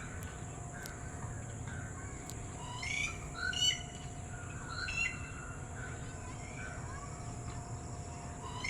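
Red-whiskered bulbul calling: a string of short chirping notes, the loudest about three and five seconds in, over a steady high hiss.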